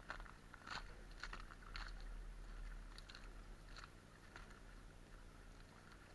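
Footsteps crunching in snow, faint and at an uneven walking pace, over a steady low rumble.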